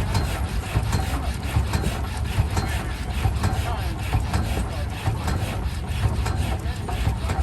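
Rumely OilPull kerosene tractor engine running, a steady rhythm of quick, even exhaust beats over a deep low rumble.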